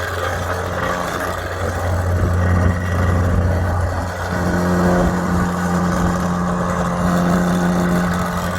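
A motor running with a steady low hum. A second, higher steady tone joins about four seconds in.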